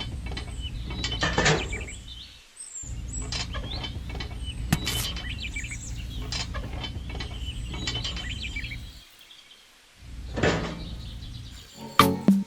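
A small motor running steadily with a mechanical clatter of gears, heard in three stretches with two short breaks where it cuts out.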